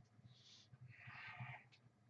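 A person's faint, paced breathing during exercise reps. Each breath is a short high hiss followed by a longer, stronger one, about one breath every two seconds, over a steady low hum.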